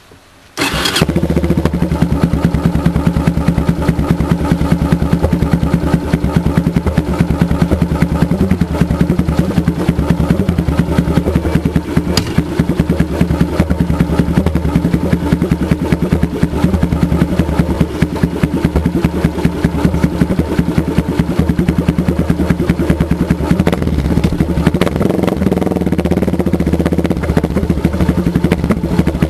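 Motorcycle engine starting less than a second in, then idling steadily with a fast even firing beat.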